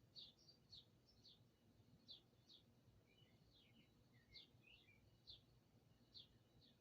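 Songbirds chirping faintly: short, falling chirps repeating roughly twice a second, with a second bird's lower chirps joining in the middle. A faint steady low hum lies underneath.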